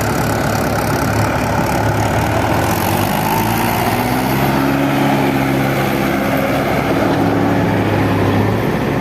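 Heavy diesel engine of a JCB 3DX backhoe loader or Mahindra 475 DI tractor running steadily near idle, its note shifting slightly about three to five seconds in.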